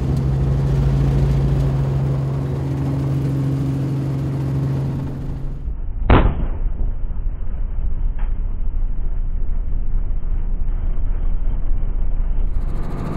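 Helicopter running steadily overhead, then a single loud gunshot about six seconds in, fired during aerial predator control. A steady, duller rumble follows, with a faint click a couple of seconds after the shot.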